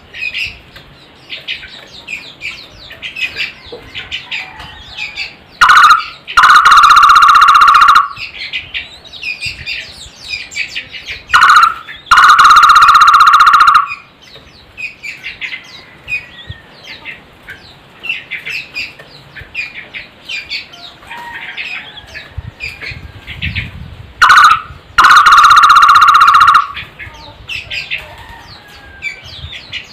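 Takur (barbet) calling: three loud trilled calls, each a short note followed by a sustained rapid trill about two seconds long, on one steady pitch. Smaller birds chirp continually in the background.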